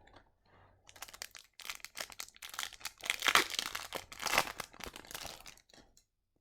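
A hockey card pack's foil wrapper being torn open and crinkled by hand: a dense run of crackling rustles, loudest in the middle, stopping about six seconds in.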